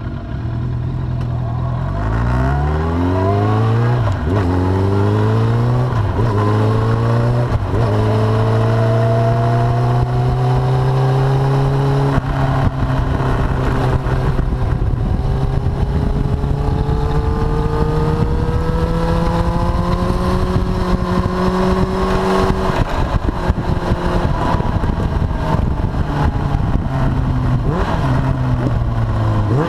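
Suzuki GSX750F inline-four motorcycle engine pulling away and shifting up through the gears, its note rising and dropping three times in the first eight seconds. It then cruises with the note climbing slowly and easing off near the end, over wind noise.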